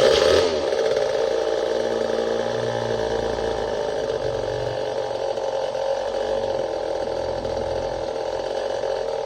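Old Poulan-built Craftsman 2.3 chainsaw's two-stroke engine running steadily, cutting in abruptly at the start.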